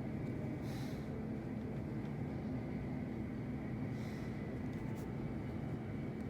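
Embraer 175 regional jet's engines running at taxi power: a steady low rumble with a faint high whine.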